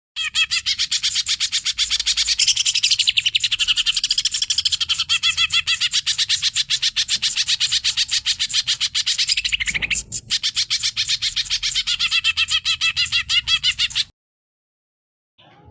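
Cucak ijo (greater green leafbird) singing a long, fast song of rapid, high repeated notes, with a brief break about ten seconds in. The song stops about a second and a half before the end, then starts again.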